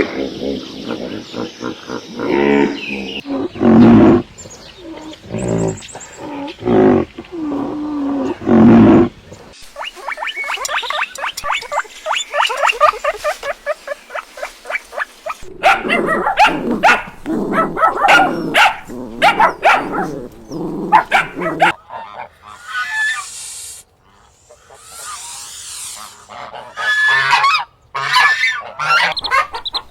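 A run of farm-animal calls in short segments that change every several seconds, including a long stretch of rapid, repeated calls.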